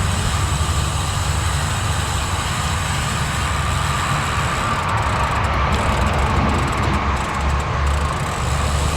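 Steady highway traffic noise mixed with wind rushing over the microphone.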